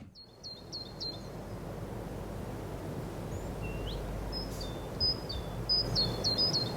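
Small birds calling: quick series of short, high chirps, several in a row just as the sound begins and again through the second half, over a steady low background rumble.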